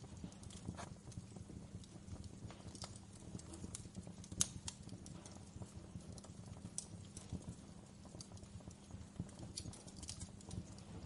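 Wood fire crackling in a fireplace: irregular sharp pops and snaps over a low steady rumble, with one louder pop a little before halfway.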